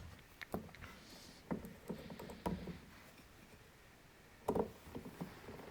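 Scattered light clicks and knocks of small chainsaw carburettor parts and screws being handled on a workbench, a few separate taps with quiet gaps between them.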